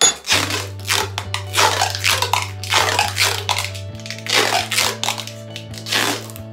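Adhesive tape pulled off a roll in a run of short, scratchy rips, over background music.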